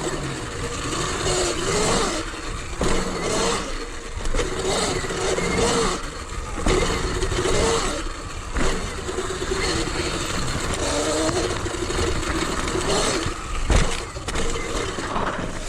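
Sur Ron electric dirt bike on the move: the motor's whine rises and falls again and again with the throttle, over wind and tyre noise, with a few knocks from the trail.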